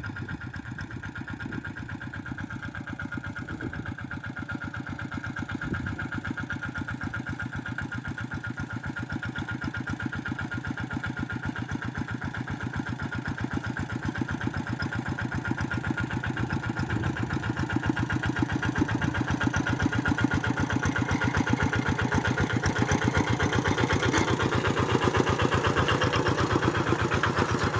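Tractor engine running steadily while ploughing, its even rapid beat growing gradually louder toward the end.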